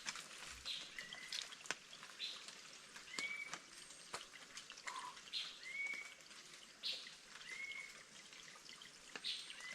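Forest ambience: a bird repeating short calls roughly once a second, a hooked mid-pitched note alternating with a higher one, with scattered faint clicks.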